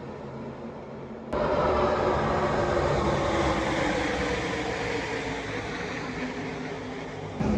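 Pack of NASCAR Truck Series race trucks' V8 engines at speed on the track. After about a second of quieter, steadier drone, the sound jumps abruptly louder, and the engines' whine slowly falls in pitch as the pack goes past.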